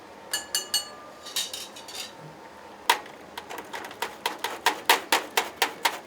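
Crockery and utensils clinking in a ramen shop kitchen, with a few ringing clinks, then about halfway a fast even run of sharp knocks, about five a second.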